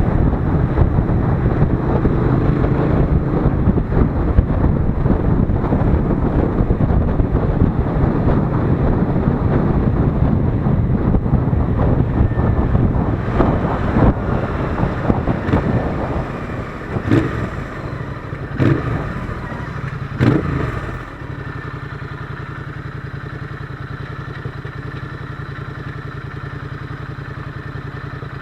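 Royal Enfield Interceptor 650's parallel-twin engine running under way, then slowing down after about sixteen seconds with three sharp knocks, and settling to a steady idle about two-thirds of the way in.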